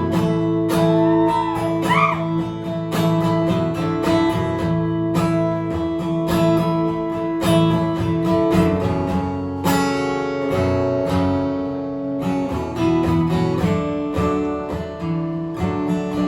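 Strummed acoustic guitar playing an instrumental passage of a song, with steady strokes and ringing chords and no singing.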